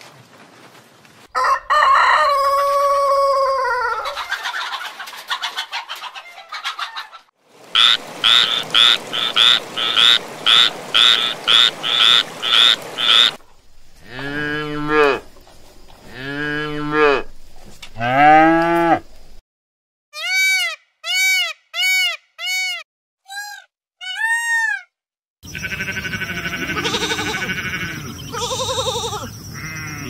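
A run of different farm animal calls, one clip after another. First comes a long call falling in pitch. Then a fast series of repeated calls, about two a second for several seconds, three drawn-out calls, a row of short rising-and-falling calls, and several animals calling together near the end.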